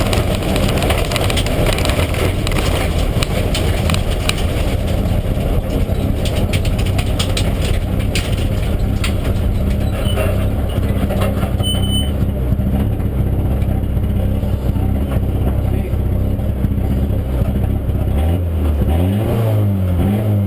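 Mitsubishi Lancer Evolution IX rally car's turbocharged four-cylinder engine running steadily at low revs, with many short clicks over the first half that thin out. Near the end the engine note rises and falls.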